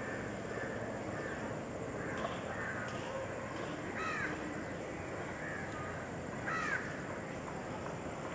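Birds calling: scattered short chirps throughout, with two louder, arching calls about four and six and a half seconds in, over a steady hiss of outdoor background noise.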